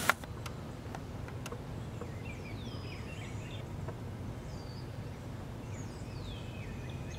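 Wild birds calling: a few short downward-sliding whistles and chirps about two seconds in and again near the end, over steady low background noise, with a sharp click at the very start.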